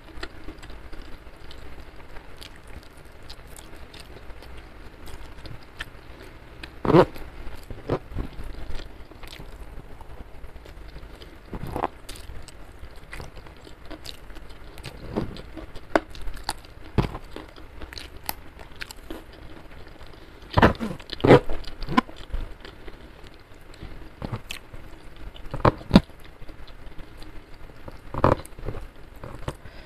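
Close-up eating sounds of a person chewing rice and side dishes with her mouth: wet chewing and lip smacks, with sharp clicks scattered through and a few louder smacks now and then.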